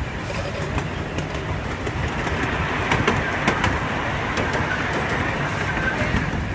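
Small-gauge park train's open passenger cars rolling along the track: a steady rumble with wheel clicks over the rail joints, a few sharp ones around three to four seconds in.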